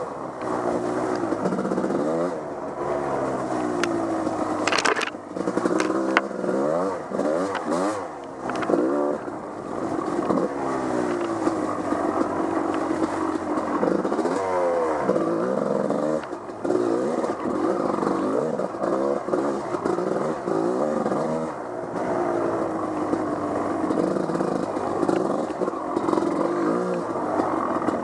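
Off-road vehicle's engine revving up and down over and over as it is ridden, its pitch climbing and dropping every second or two. A few sharp knocks and clatters come about five to six seconds in.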